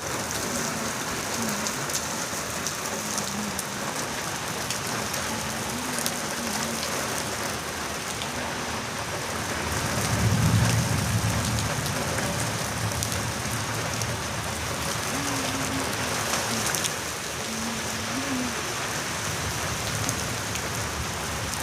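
Steady rain falling and pattering on a surface, with scattered individual drop clicks. About ten seconds in, a low rumble swells briefly under the rain.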